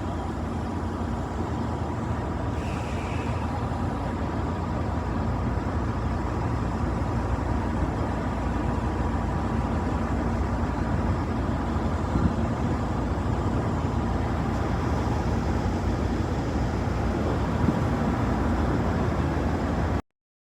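Train running noise: a steady low rumble with a faint constant hum, cutting off suddenly near the end.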